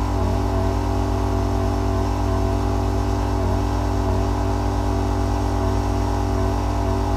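Rainman watermaker motor and high-pressure pump running steadily with a constant hum, with the pressure turned up to push brackish water through the membranes.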